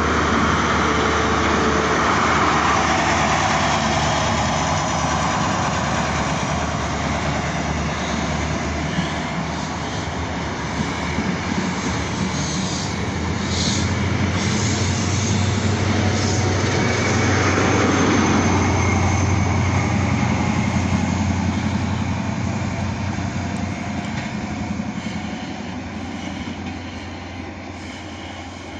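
A British Rail Class 43 High Speed Train, power car 43198 at one end, rolling past and pulling away: steady diesel engine drone with wheel and rail noise. It swells and sweeps down in pitch about two-thirds of the way through as the train's other power car goes by, then fades as the train draws away.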